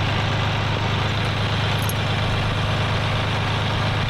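Tractor engine running steadily at low speed as the tractor creeps forward to wrap tire chains around the wheel.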